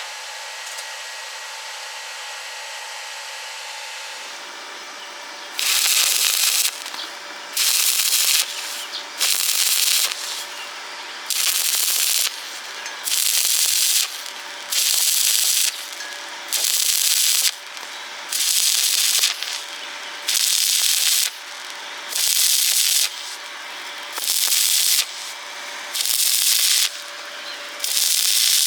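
Welding arc crackling in short bursts of about a second each, struck again and again at an even pace, as in stitch or tack welding. It starts about five seconds in, after a steady low hum and hiss.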